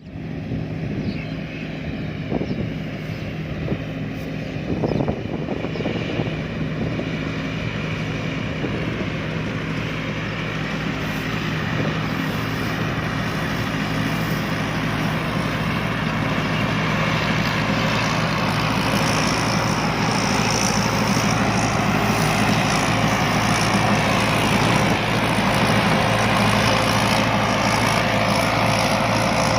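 Rice combine harvester's engine running steadily with a low hum, the machine noise growing louder through the second half.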